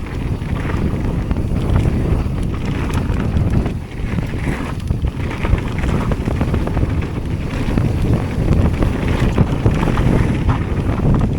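Heavy wind noise on the microphone over a Jamis Hardline mountain bike riding fast down a dirt trail, with frequent rattles and knocks from the bike over rough ground.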